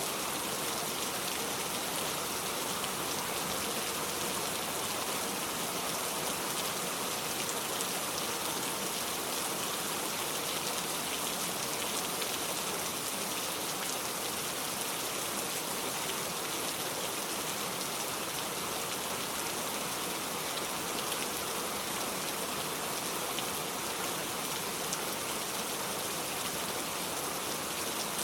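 Steady rain falling, an even unbroken hiss with faint scattered ticks of single drops.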